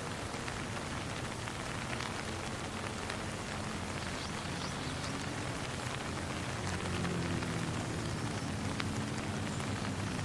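Steady rain: a dense hiss with many separate drops ticking close by. A faint low hum of pitched tones comes in about halfway through.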